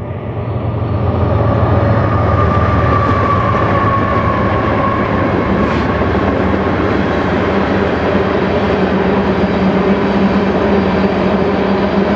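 Freight train passing close by: BNSF diesel locomotives' engines running, growing louder over the first couple of seconds, with a whine that sinks slightly in pitch as they go by. A string of tank cars then rolls past on the rails.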